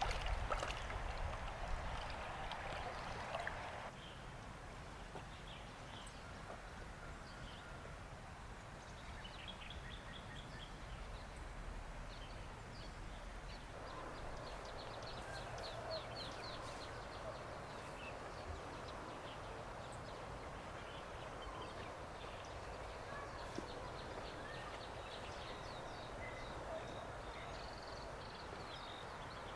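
Outdoor ambience: a steady hiss of background noise with birds chirping now and then. The background changes abruptly about four and fourteen seconds in.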